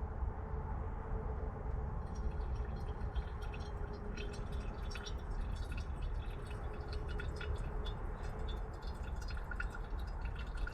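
A pot of sukiyaki simmering, with many small irregular bubbling pops that pick up about two seconds in over a steady low rumble.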